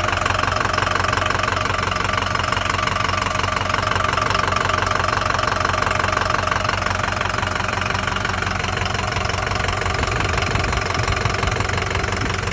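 2005 Ford F-350's 6.0 L Power Stroke turbodiesel V8 running steadily with a rapid, even knock through the engine sound: the abnormal engine noise the owner calls bad.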